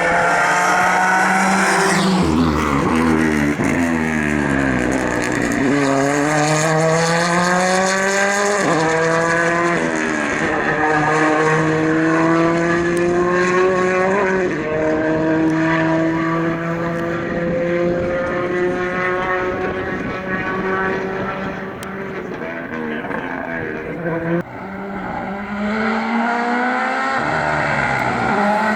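Rally car engine pulling hard through the gears. The revs climb and then drop sharply at each upshift, several times over. The sound eases in the middle and breaks off suddenly about 24 seconds in, then the revs climb again.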